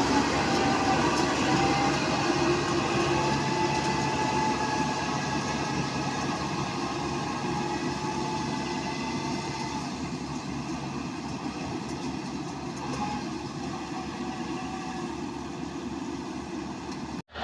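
Rice combine harvester running steadily: engine and machinery noise with a wavering whine above it. It grows slowly quieter, then cuts off abruptly just before the end.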